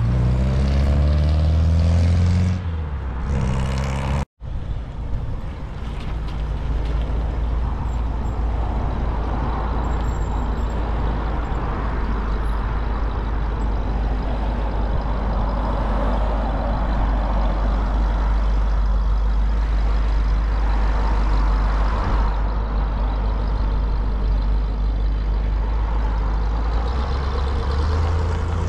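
A car engine running and changing pitch as the car moves off. After a sudden break about four seconds in, a steady low engine rumble goes on under a constant rushing noise, with engine tones rising again near the end.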